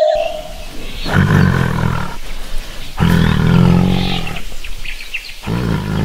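An animal's low, drawn-out calls, three in a row, the longest lasting about two seconds.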